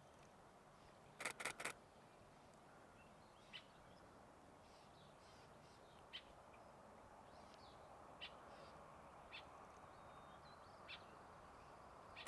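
A quick burst of about four camera shutter clicks about a second in, from a Nikon Z6II. Then faint, short, high bird chirps come every second or two over a low steady hiss.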